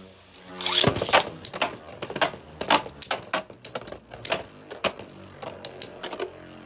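Two Beyblades, one a 3D-printed PLA top, launched into a plastic stadium about a second in. They spin and clash with many sharp, irregular clacks that thin out near the end.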